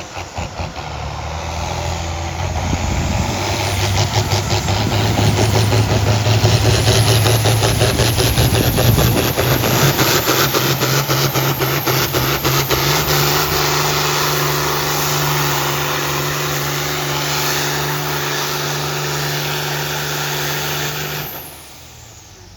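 Farm tractor engine pulling hard under load in a tractor pull, loud and steady with its note rising slightly as the pull goes on. The engine sound drops away sharply near the end.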